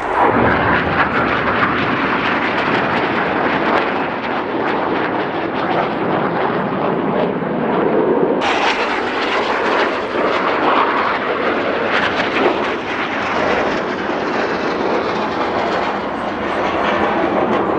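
Jet noise from Red Arrows BAE Hawk T1 trainers in a display pass: a loud, steady rushing jet sound whose tone changes abruptly about eight seconds in.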